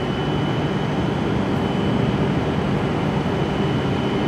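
Steady whirring hum from a stationary E7 series Shinkansen train's on-board equipment, with a thin high whine held throughout.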